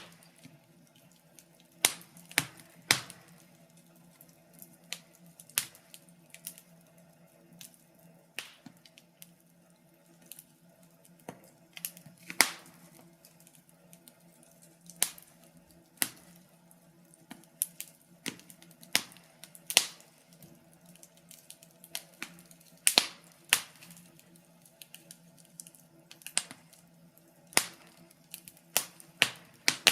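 Wood fire crackling in a fireplace, with irregular sharp pops and snaps, some loud, over a faint steady low hum.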